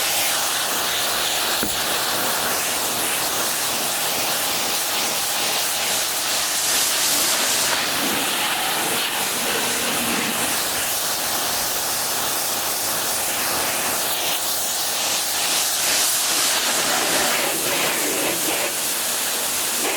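Water spraying steadily onto a truck windshield, a continuous hiss of spray washing the glass.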